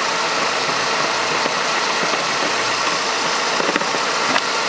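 Ford Ka's 1.0 Zetec Rocam four-cylinder engine idling steadily and smoothly, the noisy water pump no longer heard.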